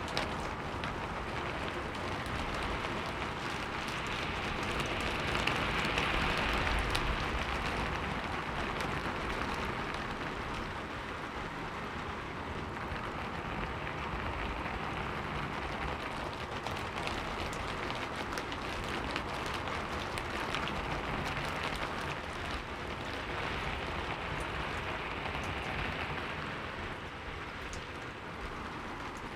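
Heavy rain falling steadily, a dense hiss scattered with the ticks of individual drops, swelling louder for a few seconds about five seconds in.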